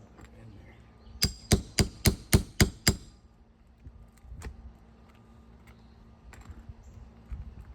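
Seven quick hammer blows, metal on metal with a bright ring, about four a second: a roofing hammer driving a nail puller to pull a shingle nail. A few light clicks and taps follow.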